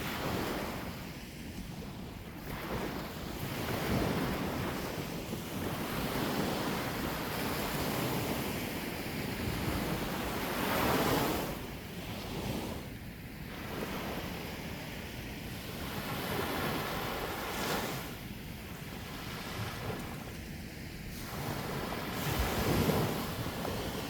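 Sea waves washing onto the shore, with wind on the microphone; the noise of the surf swells and fades every few seconds, loudest about eleven seconds in and again near the end.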